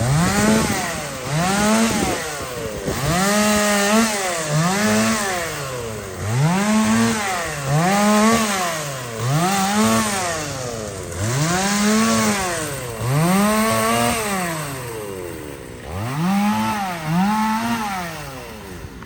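Two-stroke chainsaw revved up and down over and over, about once a second, with a short lull near the end.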